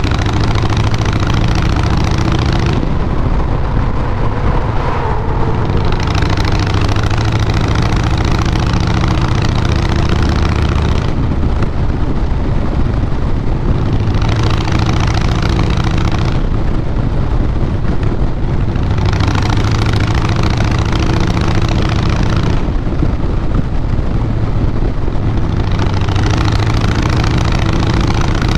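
Fuel-injected Twin Cam 96B V-twin of a 2012 Harley-Davidson Fat Boy Lo, running through Vance & Hines Big Radius 2-into-2 pipes while being ridden. Its loud, steady exhaust note is joined every few seconds by a rushing hiss that comes and goes.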